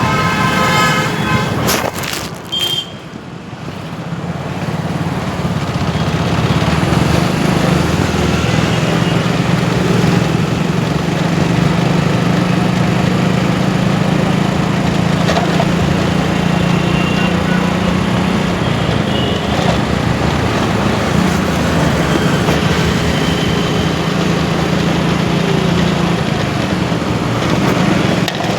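Motorcycle ridden through city traffic: its engine runs steadily under heavy wind and road noise, with short horn toots from the traffic now and then.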